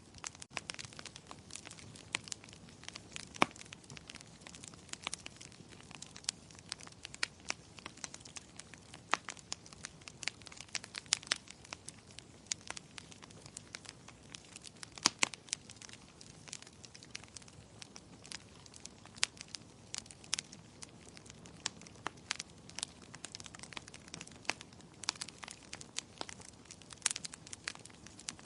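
Wood fire crackling: irregular sharp pops and snaps over a low, steady hiss of burning.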